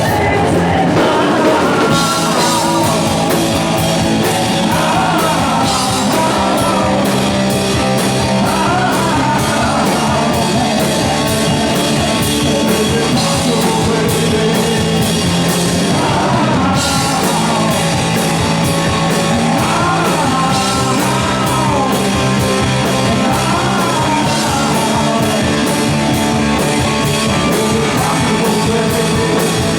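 Rock band playing live, with a singer's voice coming in and out over the band.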